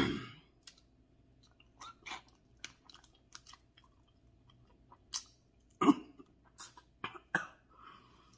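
Close-miked mouth sounds of eating a seafood boil: wet chewing and lip smacks, coming as scattered short clicks, louder in the second half.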